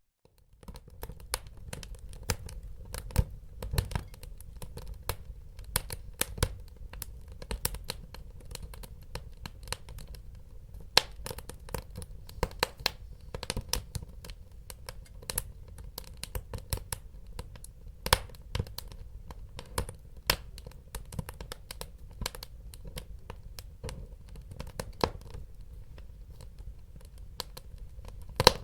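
Wood fire burning in a fireplace: dense, irregular crackling and sharp pops over a low steady rumble, with a few louder pops standing out. The sound fades up from near silence in the first half second.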